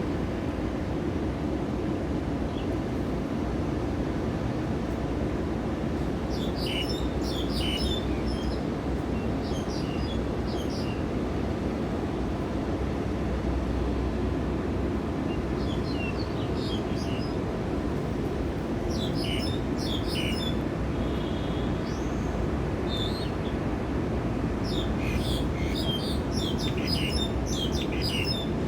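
Small birds chirping in scattered clusters of short, high calls, over a steady low background rumble.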